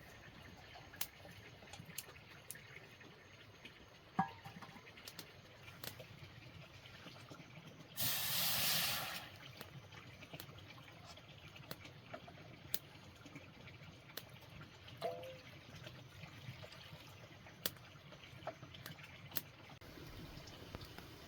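Scattered light clicks and taps, with a brief rush of water lasting about a second, about eight seconds in.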